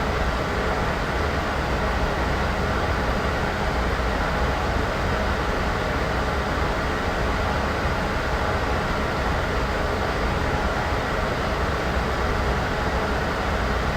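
Steady noise with a low rumble underneath, unchanging in level throughout.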